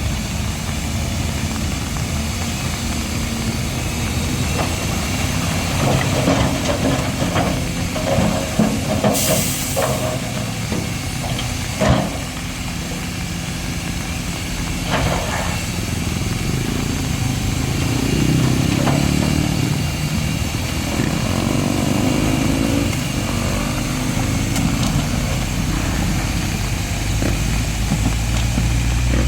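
Heavy diesel construction machinery running steadily, its engine note rising and falling around the middle, with a short high hiss about nine seconds in and a single sharp clank about twelve seconds in.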